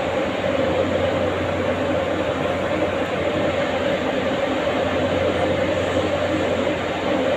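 A steady, unchanging machine-like rumble with a constant low hum and a mid-pitched drone.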